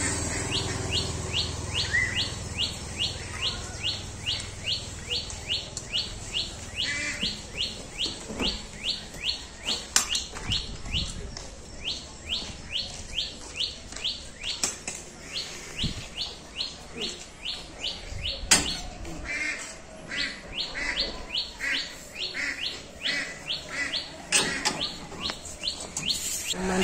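A bird calling a fast, even series of short falling chirps, about two or three a second, kept up with only brief breaks. A few sharp clicks stand out, the loudest about two-thirds of the way through.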